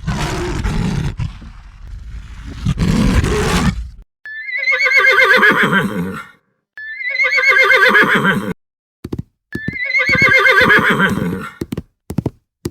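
A horse whinnying three times, the same quavering whinny repeated, after about four seconds of rough, noisy sound. A few short sharp knocks fall between and after the calls.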